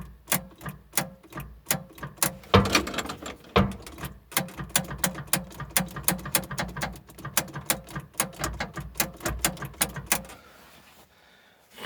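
Electric starter slowly cranking the diesel engine of a T-40 tractor, about three compression beats a second, without the engine catching. The slow cranking comes from a battery run down over the winter. The cranking stops about ten and a half seconds in.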